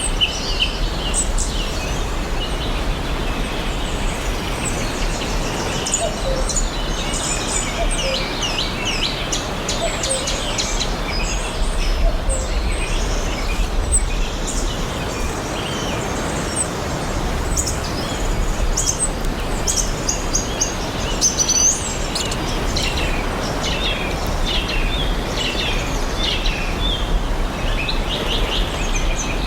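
Several forest birds chirping and singing at once, many short chirps and trills overlapping, over a steady hiss of background noise.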